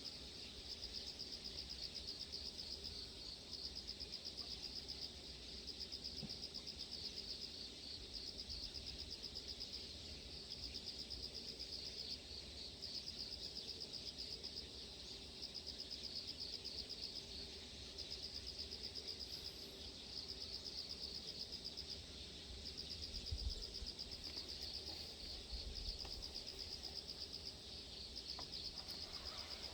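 Insects trilling in a high, fast-pulsing chorus that swells in bouts of a few seconds, over a faint low rumble.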